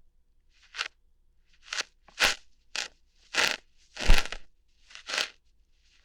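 ASMR ear-hair plucking: short, crackly, crunching pulls, about eight of them at irregular intervals, each a brief burst with quiet between.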